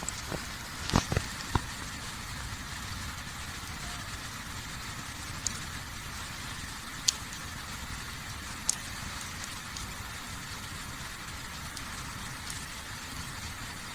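Wood campfire burning with a few sharp isolated pops, over a steady low background rumble and hiss. A few short knocks come about a second in.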